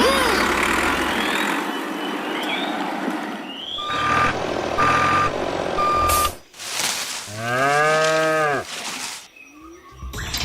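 A vehicle's reversing alarm beeps three times at one steady pitch, then a cow moos once, a single long call that rises and falls.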